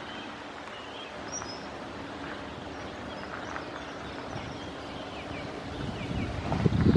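Steady low drone of an inland cargo ship's diesel engine, with small birds chirping now and then. About six seconds in, wind buffets the microphone with a loud low rumble.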